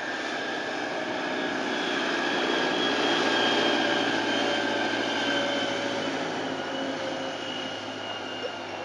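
Engine of a snow-clearing vehicle running as it passes, growing louder to a peak about three seconds in and then slowly fading, with a few steady whining tones that drop slightly in pitch.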